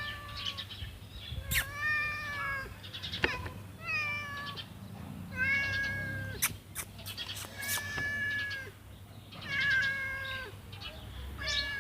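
A cat meowing over and over: about seven drawn-out meows, one every second or two. A few sharp clicks fall between the meows.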